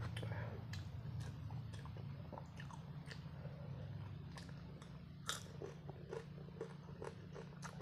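Close mouth sounds of a man chewing food with his mouth partly open, with many short wet clicks and smacks, over a steady low hum.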